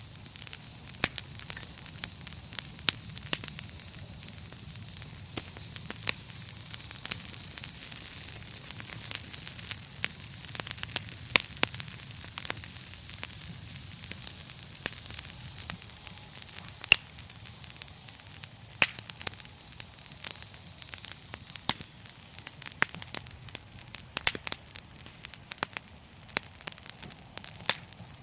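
Wood fire crackling in a fireplace: a steady hiss of burning with many sharp pops and snaps at irregular intervals.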